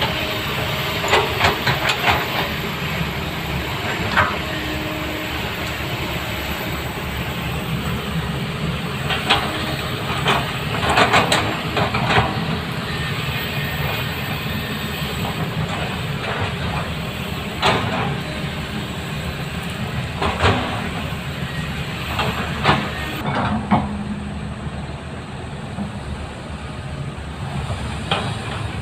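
Heavy tracked earthmoving machinery working: diesel engines running steadily under load, with repeated sharp metallic clanks and squeals from the steel tracks and undercarriage.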